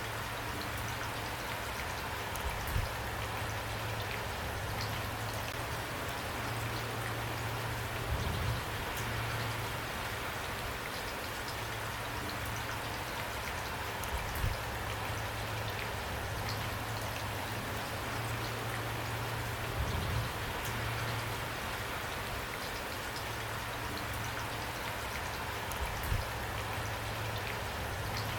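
Steady rain falling, an even hiss with a constant low hum underneath. Soft low thuds come about every six seconds.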